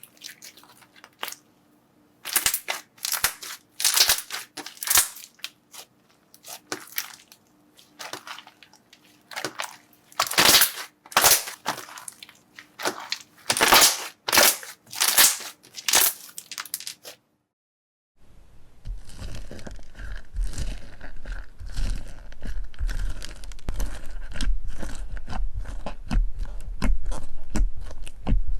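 Crunchy slime being squeezed and pressed, giving sharp, irregular crackles and crunches in bursts. After a brief silence about seventeen seconds in, a denser, continuous crackling with a low rumble follows.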